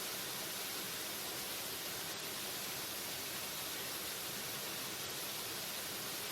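Waterfall: a steady, even rush of falling water, an unbroken hiss weighted toward the high end, with no change in level.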